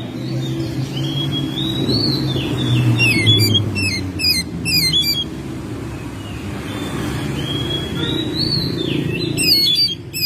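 Oriental magpie-robin singing: clear whistled phrases that rise and fall, and runs of quick falling notes, in two bouts with a lull between. A low rumble runs underneath, loudest about three seconds in.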